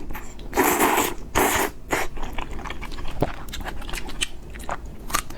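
Close-miked mukbang eating sounds of spicy fried noodles with pork: two short noisy bursts about a second in, then many small wet clicks through the rest.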